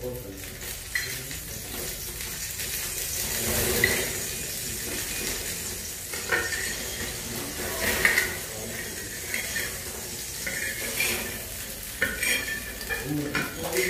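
Food frying with a steady sizzle, while metal utensils knock and clink irregularly against cookware. The loudest clinks come about four, six and eight seconds in, with a quick run of them near the end.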